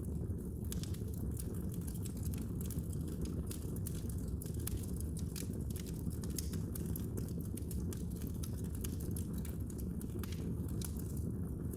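Fire burning in a fireplace, crackling with frequent small, irregular pops over a steady low rumble.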